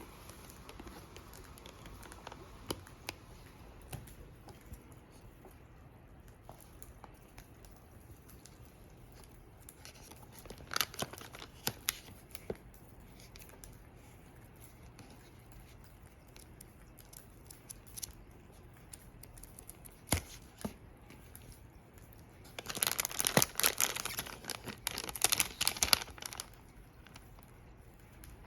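Wood fire crackling: scattered small pops, a short run of louder crackles about eleven seconds in, and a dense burst of crackling near the end.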